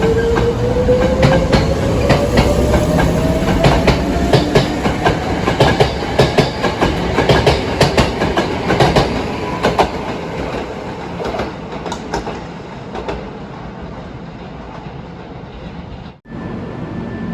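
Hankyu electric train running past, its motor whine rising in pitch as it gathers speed and its wheels clacking over rail joints, then fading away. The sound drops out for an instant near the end.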